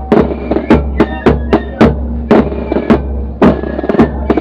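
A corps of drums and flutes playing a march: close, loud snare and bass drum strokes in a quick steady rhythm under held flute notes.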